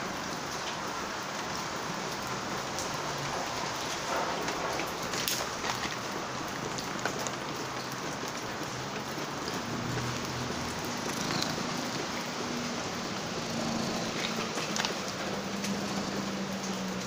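Steady rain falling and pattering on surfaces, with a few sharper drip ticks now and then. A faint low hum comes in about ten seconds in.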